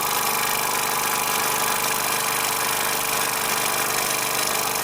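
Bowman M140 model steam engine running steadily on compressed air, giving an even, continuous hiss of exhausting air.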